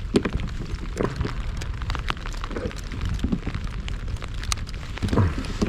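Rain falling close to the microphone: many irregular sharp drop ticks over a steady low rumble.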